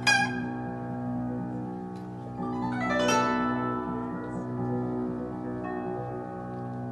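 Guzheng and piano duet: a plucked note at the start rings out over held low notes, and about three seconds in a rapid guzheng glissando sweeps across the strings before the notes settle again.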